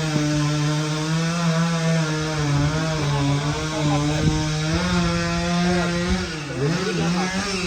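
Chainsaw running at high revs while cutting through tree wood, its pitch wavering slightly under load; the revs sag about six seconds in.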